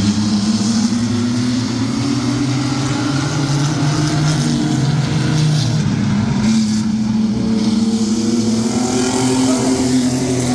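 Engines of a pack of mini trucks racing around the oval: a loud, continuous drone whose pitch slowly falls and rises as they lift and accelerate through the laps.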